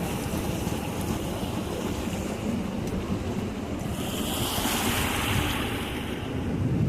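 Black Sea surf: waves washing on the shore, one wave's hiss swelling about four seconds in and dying away two seconds later, over a steady rumble of wind on the microphone.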